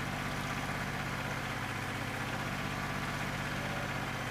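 New Holland 1320 compact tractor's diesel engine running steadily with an even pulsing, down on one cylinder from a bad injector.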